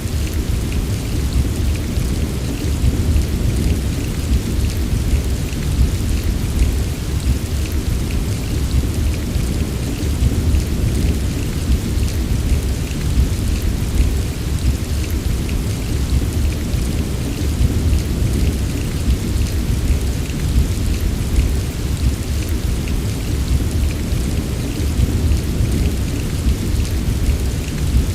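Steady heavy rain, with a constant deep rumble underneath and scattered drops ticking on a surface.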